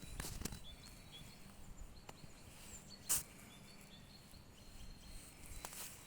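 Quiet early-spring forest ambience: faint short bird chirps, a few soft crunching sounds early on, and one sharp click about three seconds in.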